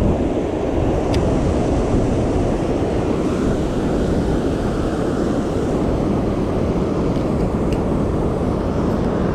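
Wind buffeting the microphone: a steady low rumble, with a couple of faint ticks.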